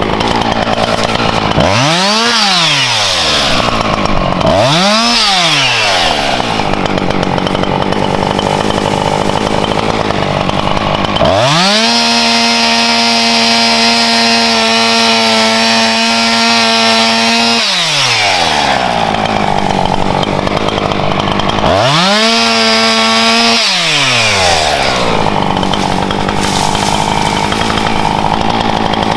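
Husqvarna two-stroke chainsaw cutting firewood, the engine revving up and dropping back again and again and holding at full throttle for about six seconds in the middle. The chain is running slightly too loose, which the owner says he could hear while cutting.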